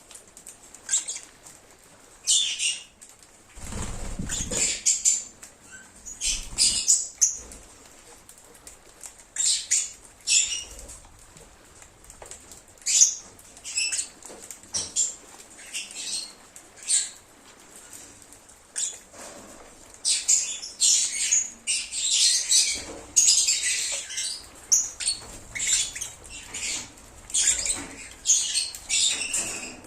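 Lovebirds chirping and screeching in short, sharp high calls, scattered at first and coming thick and fast over the last ten seconds. A brief low rustle about four seconds in.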